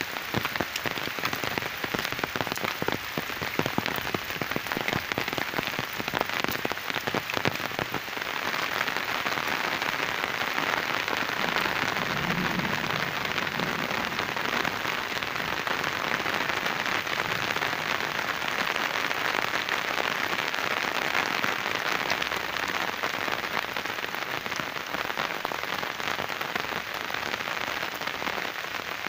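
Rain falling steadily, a dense hiss. For about the first eight seconds many sharp, close drop hits sound through it, then it settles into an even hiss.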